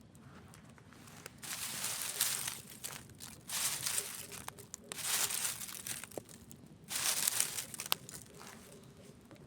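Campfire with four bursts of crisp crumpling, crackling noise, each about a second long, and small sharp crackles in between.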